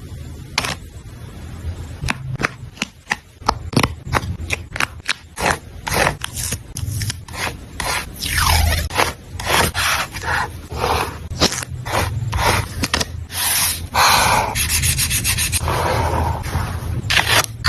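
Close-up paper-craft handling of journal paper and stickers: a run of crisp ticks and crinkles, then longer stretches of rubbing and scraping from about fourteen seconds in.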